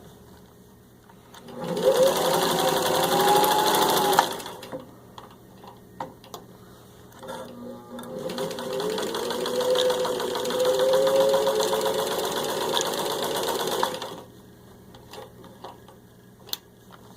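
Singer 15-91 sewing machine running as it stitches through six layers of denim, in two bursts of about three and six seconds, the motor's whine rising in pitch as it picks up speed. Soft clicks and knocks of handling in the pauses between.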